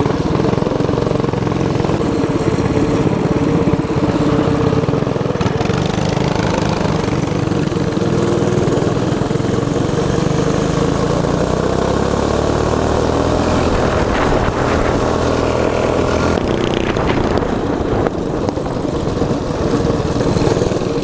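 Predator 212 single-cylinder four-stroke engine on a mini bike running while riding. Its note holds steady, then shifts up and down in pitch around the middle as the throttle changes.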